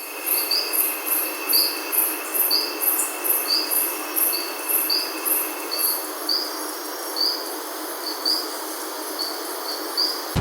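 Forest ambience: a bird repeats a short chirp about every second, over a steady high insect trill and an even hiss. A thin, steady insect whine fades out about halfway through.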